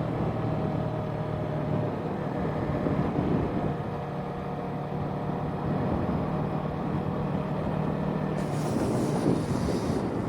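Parallel-twin engine of a Yamaha sport bike running steadily under way, with wind rushing over the microphone. The engine note drops out briefly about two seconds in and picks up again, and a burst of high hiss comes near the end.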